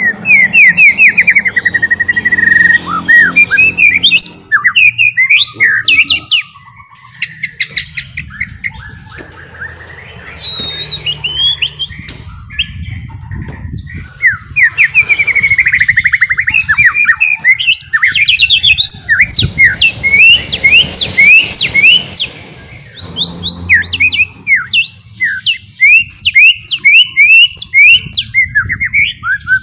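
White-rumped shama (murai batu) singing in the fast twittering 'ngeriwik' style: loud phrases of rapid chirps, sweeping notes and trills, with short lulls between phrases.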